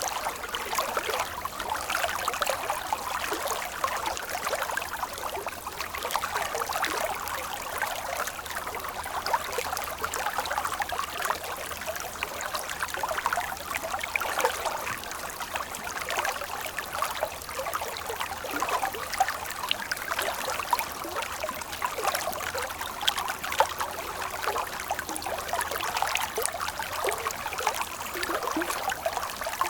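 Flowing water, a stream running and trickling, heard as a steady, busy patter of small splashes without any deep rumble.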